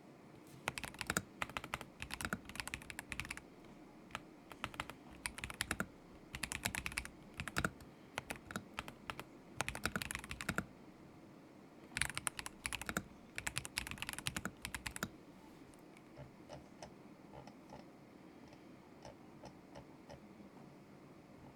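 Typing on a KZZI K75 Pro mechanical keyboard with Moment linear switches: quick runs of keystrokes with short pauses between them, turning to a few faint, scattered clicks for the last several seconds.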